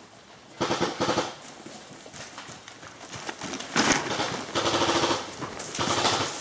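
Airsoft guns firing rapid full-auto bursts, four bursts in quick succession.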